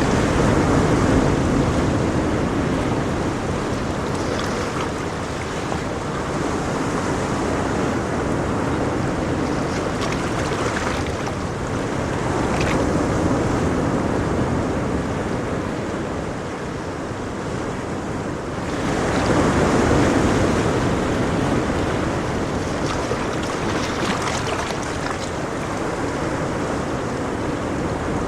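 Ocean waves breaking and washing on a shore, a steady surf wash that swells and ebbs slowly, with a stronger wave surging about two-thirds of the way through.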